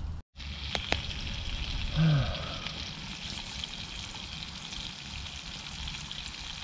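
Potatoes sizzling steadily as they fry in hot oil in a cast iron skillet. There are two light clicks about a second in, and a short falling hum from a man's voice about two seconds in.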